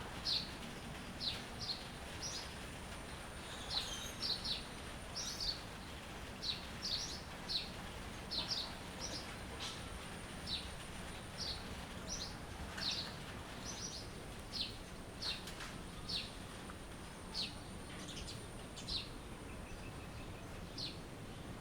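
Small birds chirping: short, high chirps, singly or in quick pairs, about one a second, thinning out near the end. Underneath is a steady background hiss with a faint constant high tone.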